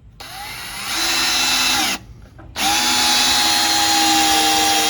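Power drill driving screws into wooden framing in two runs: the first winds up over about a second and stops near two seconds in, and the second starts half a second later and runs at a steady whine.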